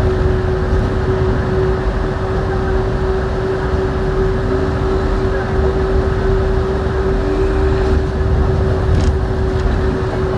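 Yurikamome rubber-tyred automated guideway train running: a steady rumble of tyres on the guideway with a constant motor hum. A few faint whines rise and fall in the middle.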